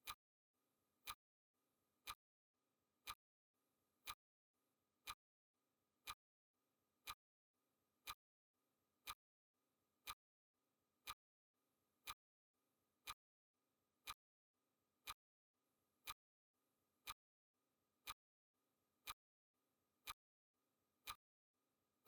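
Clock ticking sound effect of a countdown timer: a sharp, faint tick once a second, evenly spaced.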